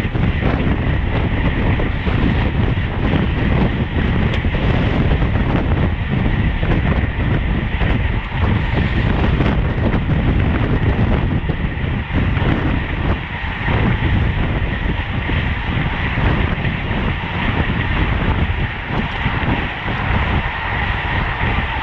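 Steady wind rushing over the microphone of a camera on a road racing bicycle at speed, with rolling road noise underneath.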